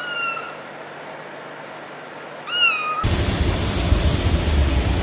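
A cat meows twice: a short, high, slightly falling meow, then about two and a half seconds in a longer meow that rises and falls. About three seconds in, a louder steady noise with a low rumble cuts in and runs on.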